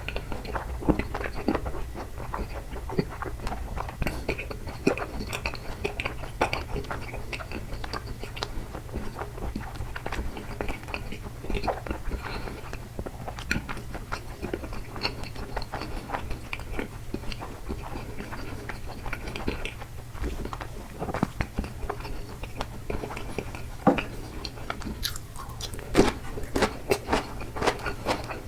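A person chewing takoyaki, a run of many small mouth clicks and smacks, coming thicker near the end.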